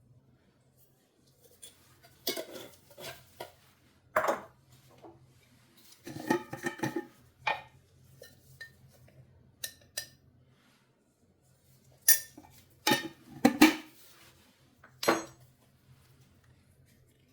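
Dishes and cutlery clattering in a string of separate clinks and knocks, heaviest near the middle and toward the end.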